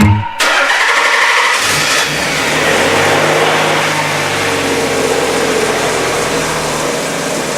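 Nissan 300ZX's newly swapped-in engine started for the first time. The starter cranks for about a second, the engine catches on that first crank and revs up briefly, then settles into a steady idle whose pitch slowly drops.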